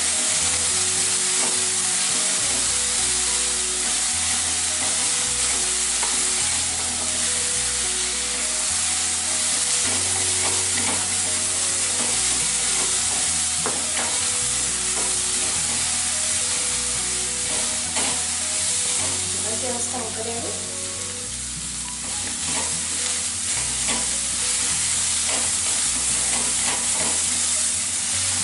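Chopped onions, green chillies and curry leaves frying in oil in a nonstick kadai, with a steady sizzle, while a spatula stirs them and now and then scrapes and taps against the pan.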